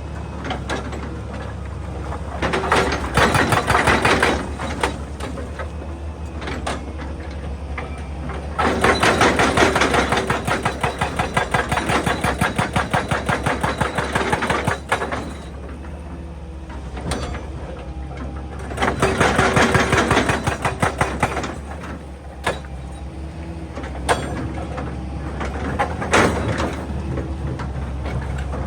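Excavator-mounted hydraulic breaker hammering rock in rapid bursts, with the excavator's diesel engine running steadily underneath. The hammering comes three times, the longest burst lasting about six seconds in the middle.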